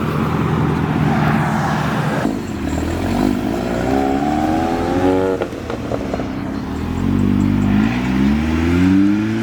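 A car engine accelerating hard as the car pulls away, its pitch climbing steeply for a couple of seconds. It drops off abruptly about five seconds in, then climbs again near the end.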